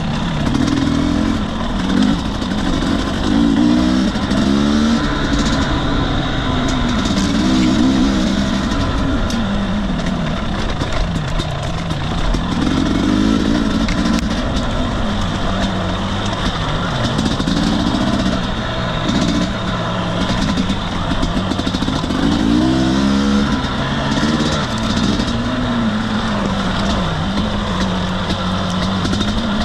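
2021 Husqvarna TE250i two-stroke dirt bike engine running under way, its revs rising and falling again and again every few seconds as the throttle is worked on and off.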